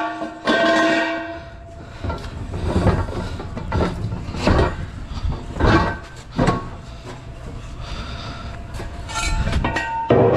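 Scrap metal being unloaded at a scrapyard, with a series of loud metal-on-metal clanks and bangs at irregular intervals over a faint steady machine hum.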